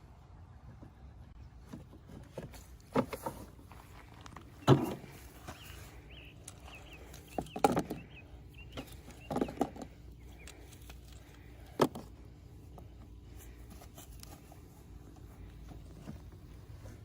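A handful of separate knocks and scrapes, the loudest about five and eight seconds in, over a faint low steady background noise.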